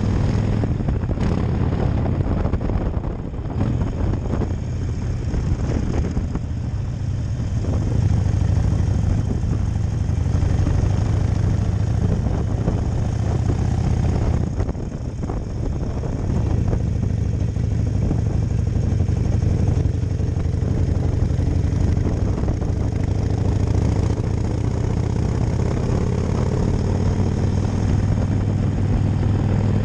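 2010 Harley-Davidson Nightster 1200's V-twin engine running steadily under way. Its level dips briefly twice: a few seconds in and about halfway through.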